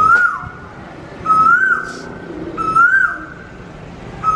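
A bird calling: a loud whistled note that holds level, then swoops up and drops away. It repeats four times at an even spacing of about one and a half seconds.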